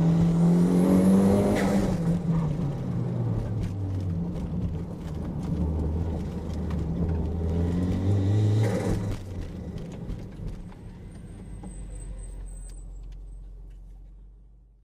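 Toyota MR2's engine revving up and easing off twice, the second time about eight seconds in, then settling to a low steady hum that fades away near the end.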